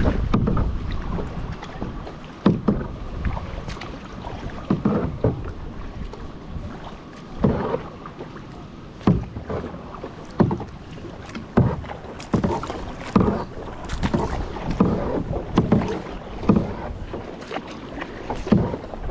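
Kayak paddle strokes: the blades dip and splash in the water about once a second, in an uneven rhythm.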